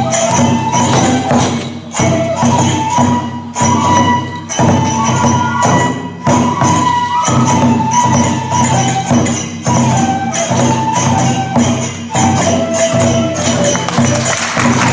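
Kagura ensemble music: a held, stepping flute melody over taiko drum beats and clashing small hand cymbals. Applause starts right at the end.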